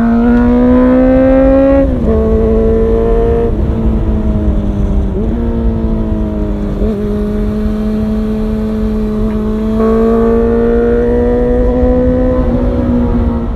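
Honda CB400 Super Four's inline-four engine through an aftermarket short full-titanium exhaust, pulling hard with the pitch climbing. The pitch drops at gear changes about two and three and a half seconds in, then holds steady at cruising speed and pulls up again near the end.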